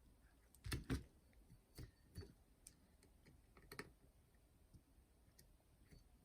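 Faint, scattered clicks and taps of small parts being handled during a repair: a pair about a second in, then a few single ones, over near silence.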